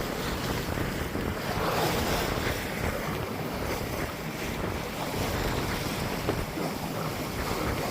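Wind buffeting the microphone over the steady rush of waves and water around a sailboat under way in rough seas.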